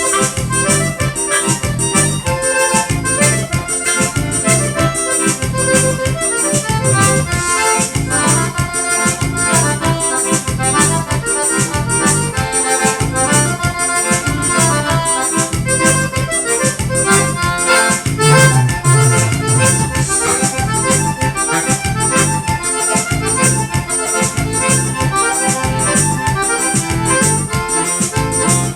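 Forró band playing an instrumental vaneirão in F major, with accordion leading over a steady, evenly paced beat.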